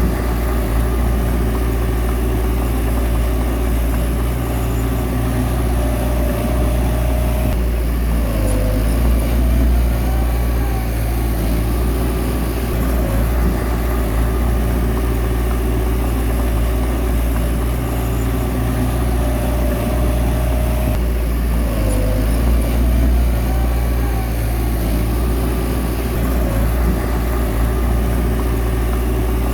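Bulldozer's diesel engine running steadily, with a change in its note about eight seconds in and again about twenty-one seconds in.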